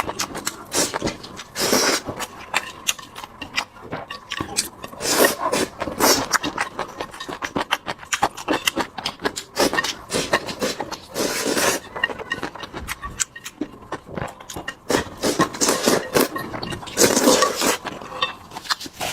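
A person chewing and smacking while eating braised pork, a dense run of short mouth clicks and smacks with bursts of louder chewing.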